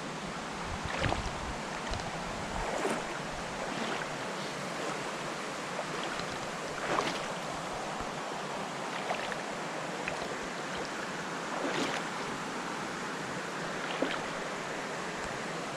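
Shallow mountain creek rushing steadily over rocks, with a splash every second or two from steps wading through it.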